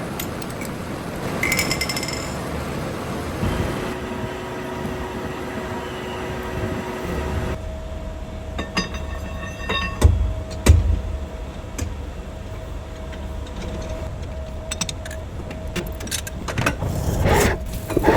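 Metalworking shop machinery running, with scattered metallic clicks and clanks and two heavy thumps about ten seconds in.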